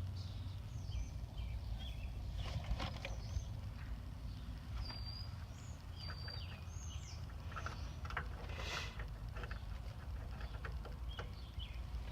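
Small birds chirping repeatedly in the background over a steady low rumble, with scattered light clicks and taps.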